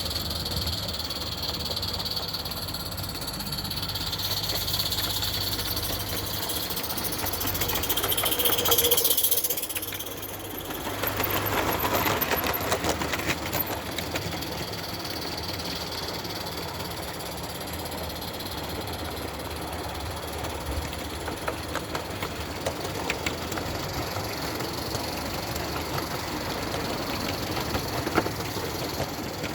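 Roundhouse Lady Anne live-steam model locomotive running with a mixed goods train: a steady steam hiss with fine ticking from the wheels and running gear. The hiss swells louder about eight seconds in and drops away at about ten seconds.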